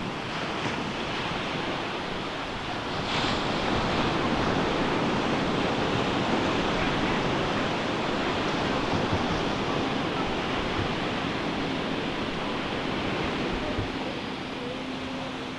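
Ocean surf breaking and washing up the beach as a steady rush, swelling louder about three seconds in and easing off near the end.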